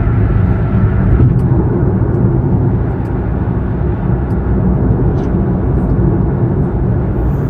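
Steady in-cabin road noise from a Kia All-New Morning (TA) city car on the move: a low rumble of engine and tyres with a hiss of wind and air.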